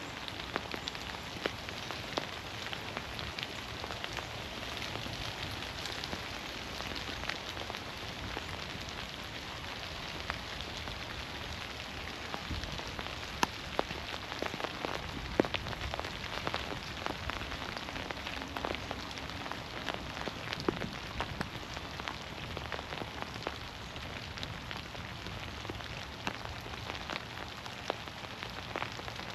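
Steady rain falling through forest trees, with many sharp close drops spattering throughout.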